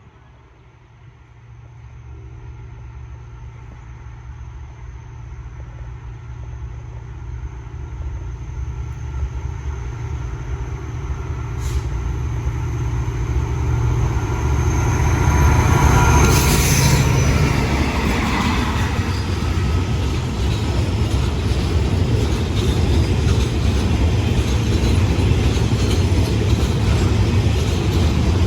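A CRRC CDA5B1 diesel-electric locomotive hauling a freight train approaches, its engine rumble growing steadily louder for about fifteen seconds. It is loudest as the locomotive passes about 16 seconds in, and after that comes the steady rumble of the gas tank wagons rolling by.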